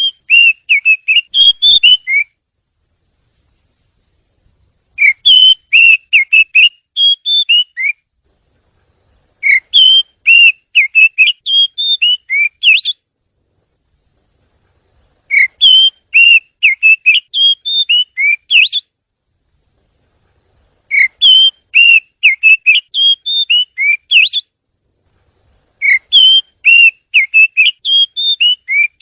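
Oriental magpie-robin (kacer) singing: six phrases of rapid, clear whistled notes, each about three seconds long, separated by pauses of about two seconds.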